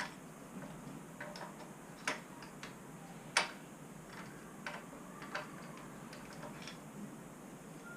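Irregular light clicks and taps, a handful of them, as small parts and tools are handled at a workbench. The sharpest come about two and about three and a half seconds in.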